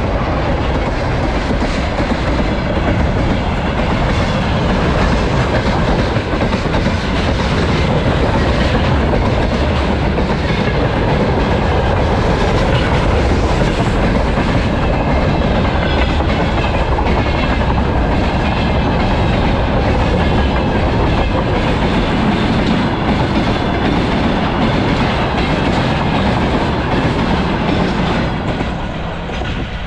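Freight train wagons rolling past, the wheels clacking over the rail joints in a steady run. The sound eases off near the end.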